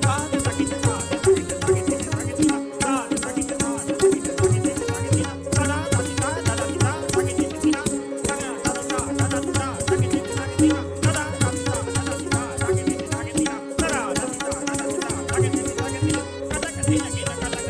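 Indian classical accompaniment music for Kathak: tabla strokes over a steady drone with a wavering melodic line.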